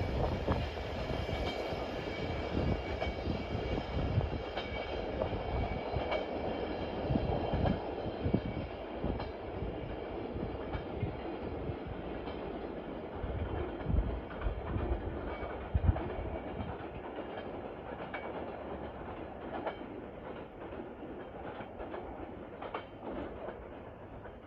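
Cars of a train hauled by a DF200 diesel locomotive rolling past and away, their wheels clacking irregularly over rail joints. The rumble fades gradually as the train recedes.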